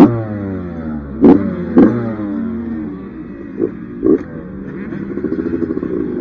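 Dirt bike engine being ridden, its pitch dropping off and then climbing again as the throttle opens and closes, with about five sharp knocks and clatter as the bike hits bumps.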